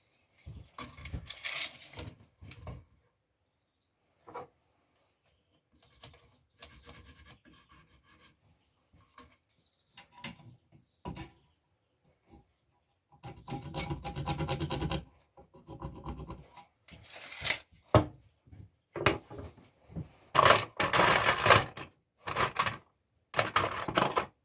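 Wooden boards being handled: irregular scrapes and rubs of wood on wood with a few knocks, and a longer scrape about halfway through.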